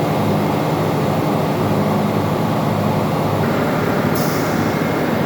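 Steady, loud drone of running machinery in a ship's engine room, with a deep hum throughout and a brief high hiss about four seconds in.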